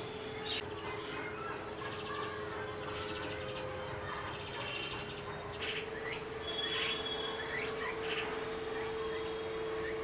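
Small birds chirping, with many short calls that grow busier in the second half, over a steady low hum.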